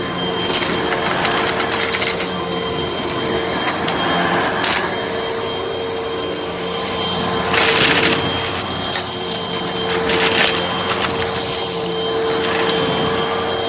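Hoover vacuum cleaner running with a steady motor hum, with short bursts of crackling as it sucks up crunchy debris; the loudest burst comes about eight seconds in.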